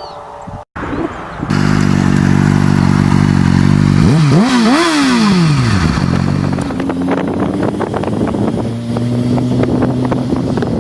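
Yamaha R6 motorcycle engine idling, then blipped in a few quick revs that rise and fall about halfway through, before settling back to a steady idle.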